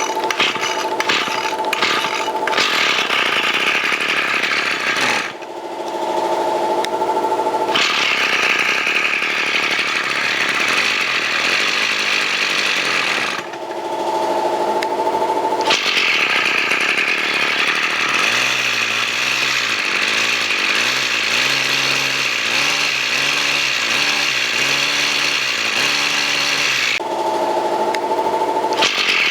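Ryobi EKK-2610 brush cutter's small two-stroke engine running after its seizure, on freshly replaced crankshaft bearings. It is revved up to high speed three times, dropping back to a steady idle between the bursts, with the longest high-speed run in the second half.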